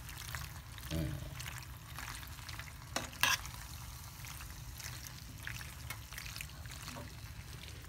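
Penne pasta and sausage sauce sizzling in a hot skillet as it is stirred, a steady faint crackle, with two sharp clicks a little after three seconds in.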